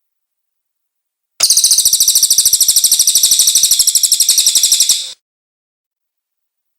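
Cililin bird song: a rapid, very even, high-pitched trill of repeated notes, starting about a second and a half in and lasting almost four seconds.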